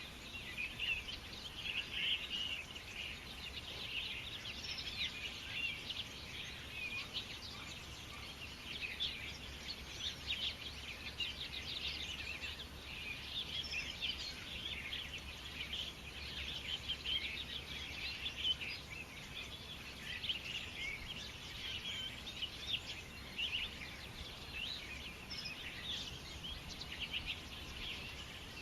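A chorus of many small birds chirping at once, a dense and continuous twittering of short high chirps with no pauses.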